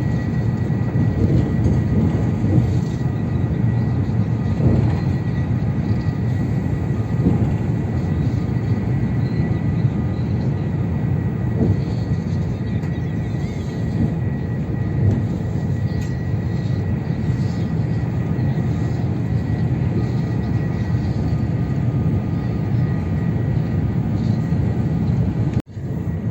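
Steady rumble of an AVE high-speed train running at speed, with a faint steady whine over it. The sound cuts out for a moment near the end.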